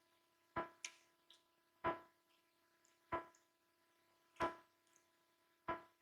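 A sharp, pitched tick repeating evenly about every second and a quarter, each with a brief ringing tone, and fainter high drip-like clicks in between.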